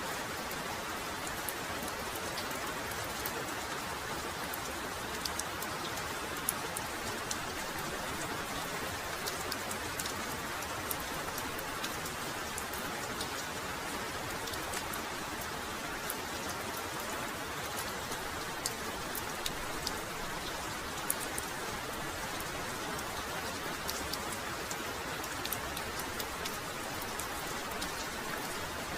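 Heavy rain falling steadily, an even hiss with scattered sharp ticks of individual drops striking close by.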